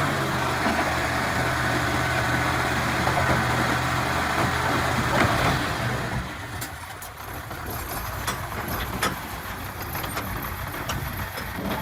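Komatsu D31-P bulldozer's diesel engine running steadily. About halfway through it drops away to a quieter engine sound with scattered clicks and knocks.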